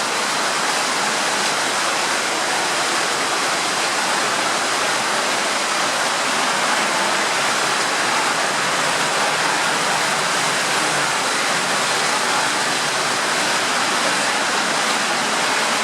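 Steady rushing noise of water flowing through a flooded underground tunnel, even and unbroken.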